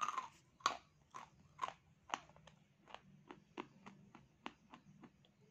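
A mouthful of crunchy dry clay being chewed: a loud crunch at the start, then a steady run of short crunches, about two to three a second, getting softer toward the end.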